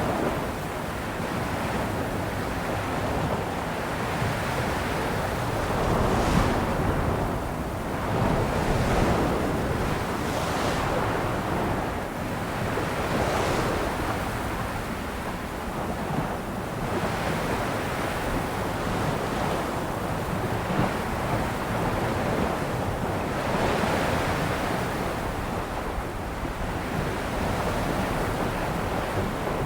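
Sea waves washing onto a shore, a continuous surf hiss that swells and falls back every few seconds as each wave breaks.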